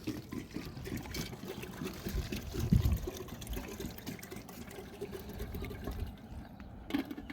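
Water pouring and splashing unevenly, with a heavier thud about two and a half seconds in and a short knock near the end.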